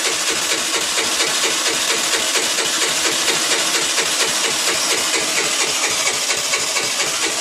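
Baotian Tanco 50cc four-stroke single-cylinder scooter engine running at a steady idle, with an even, fast putt-putt rhythm.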